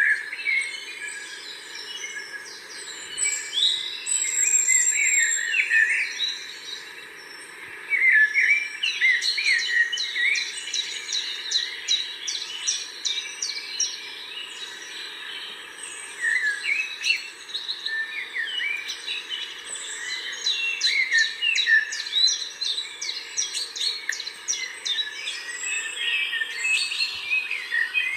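Several birds singing and chirping together: many quick chirps, trills and short gliding whistles, busiest from about eight seconds in, over a faint steady hum.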